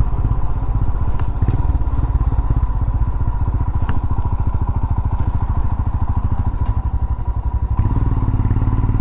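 Royal Enfield Himalayan's single-cylinder engine running on the move, a steady fast beat of firing pulses. It eases off slightly about seven seconds in and picks up again about a second later.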